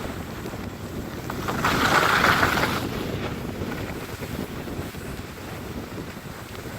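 Wind buffeting a hand-held phone's microphone as a skier moves down a snowy slope, a steady rush that swells into a louder hiss about two seconds in for about a second.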